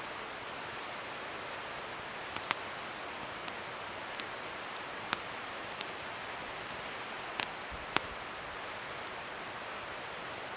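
Wood fire burning: a steady crackling hiss broken by sharp pops every second or so, the loudest about two and a half seconds in and near eight seconds.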